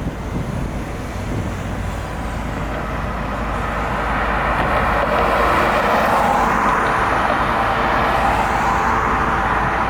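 Engine noise of a passing motor vehicle, growing louder over the first few seconds and then holding steady.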